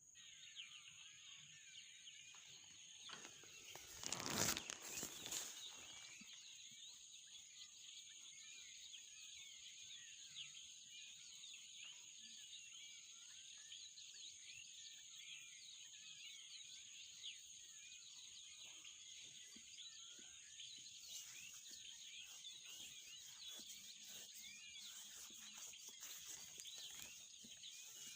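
Weaver birds chattering at their nests: a faint, continuous mass of quick, high chirps from many birds, with a short louder noise about four seconds in.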